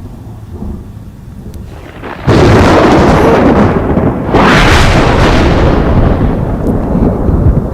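Thunder: a low rumble, then a sudden loud thunderclap a little over two seconds in and a second clap about two seconds later, each rolling on as a long rumble.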